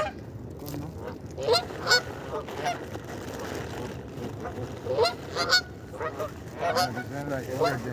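A flock of birds being fed, calling loudly in short pitched calls that come in pairs and clusters, about six over several seconds.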